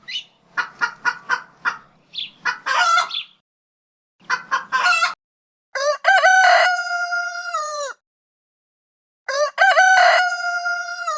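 Chickens clucking in quick short notes, in two runs, followed by two long rooster crows, cock-a-doodle-doo, the second near the end.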